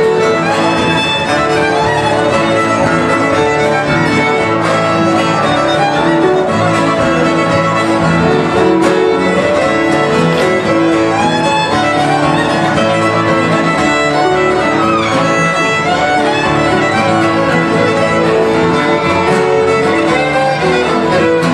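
Live acoustic string music led by a fiddle playing a tune, with guitar accompaniment.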